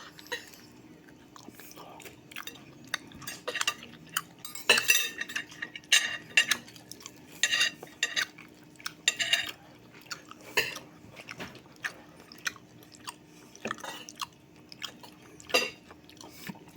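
Irregular clinks and scrapes of cutlery on dishes, with chewing, while eating bulad (dried fish). A faint steady hum runs underneath.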